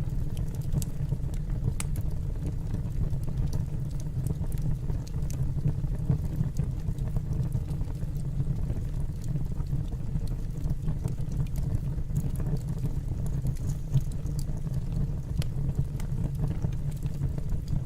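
Wood fire burning in a fireplace: a steady low roar with scattered faint crackles.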